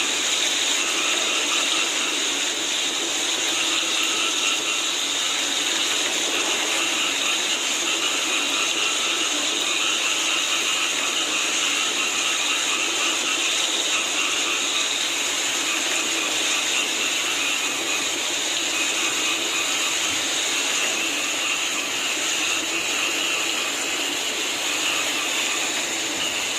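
Dense chorus of frogs calling in the rain: a steady mass of overlapping calls at several pitches over an even hiss of rainfall.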